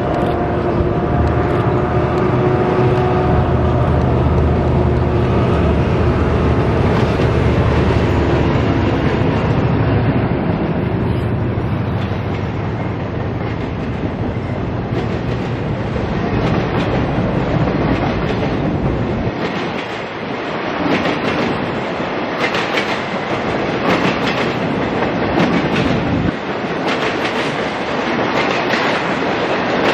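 A SEPTA work train's diesel locomotives, a KLW SE15B leading, pass close with their engines running. A long string of rail-carrying flatcars follows, rolling by with wheels clacking over the rail joints. The engine hum fades about two-thirds of the way through, leaving the wheel clacks.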